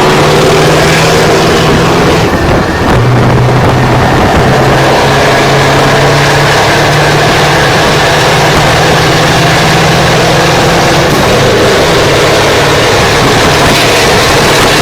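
Heavy truck diesel engine running loud and steady under way, its pitch shifting slightly a few times.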